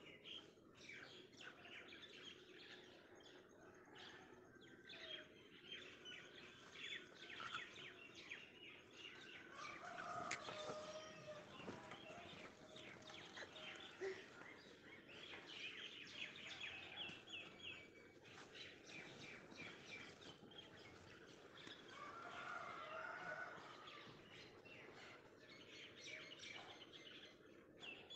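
Faint, busy chirping of small birds throughout, with a few lower, longer calls about a third of the way in and again near the three-quarter mark.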